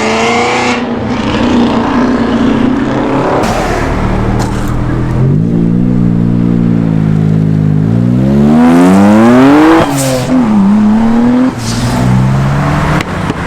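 A car engine accelerating hard away, its pitch climbing for about four seconds, then dropping sharply at a gear change about ten seconds in and climbing again briefly.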